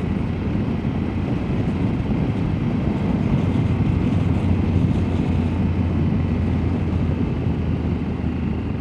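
Triumph motorcycle running at steady speed on the road: a continuous low engine drone under road noise, growing slightly stronger about halfway through.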